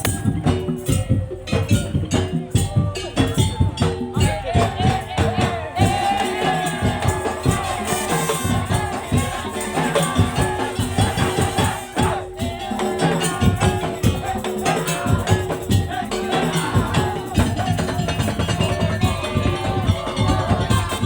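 A Madurese tong-tong (daul) ensemble playing: dense, driving rhythm on slit drums and drums with rattling percussion. A wavering melody line joins in about four seconds in.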